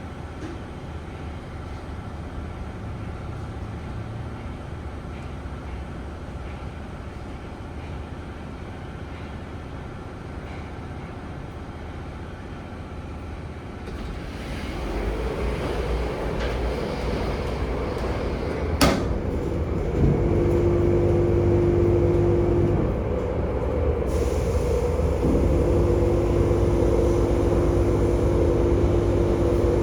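Tunnel car wash machinery running with a steady hum that grows louder about halfway through. A single sharp click comes about two-thirds in, followed by a steady droning tone that stops briefly and starts again.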